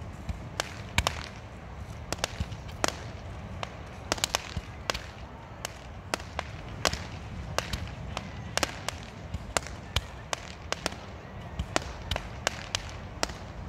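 Consumer fireworks fired from the beach, cracking and popping in a quick irregular series of sharp reports, about two or three a second, some overlapping, over a steady low rumble.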